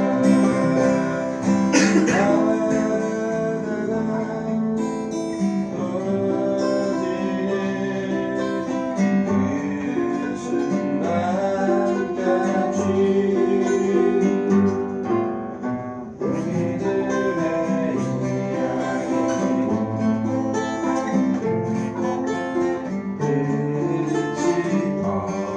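Acoustic guitar music, strummed, with a brief drop in loudness about two-thirds of the way through.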